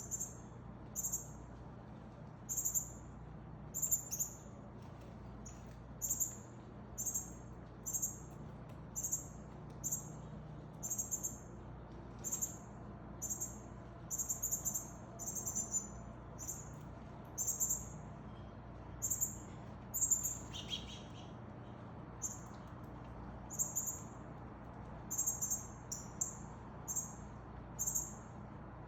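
Northern cardinal calls: a short, high, sharp note repeated about once a second, with one lower, brief call about two-thirds of the way through.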